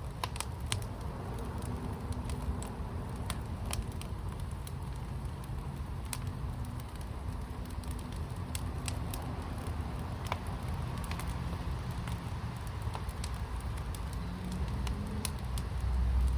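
Fire in a fire pit crackling, with sharp irregular pops over a steady low rumble. The rumble swells louder near the end.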